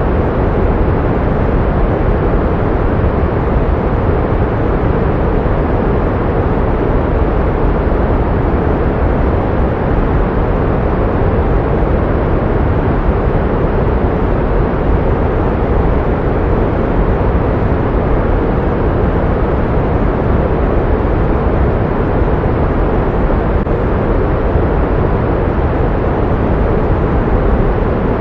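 Steady synthetic pink noise for sound therapy: an even, unchanging rush with most of its weight in the low and middle range and little treble.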